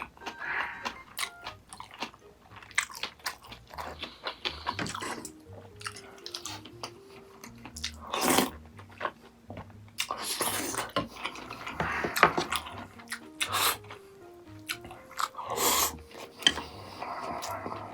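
Close-miked eating: biting, crunching and chewing, with clicks and several louder noisy bursts. A light background tune with a simple stepping melody plays underneath.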